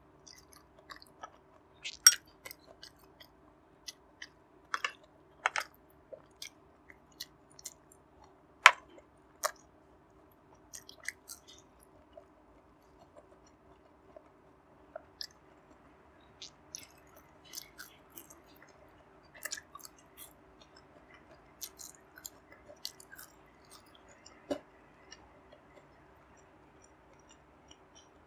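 A person chewing food close to a clip-on microphone: irregular wet mouth clicks and smacks, loudest in the first ten seconds, over a faint steady hum.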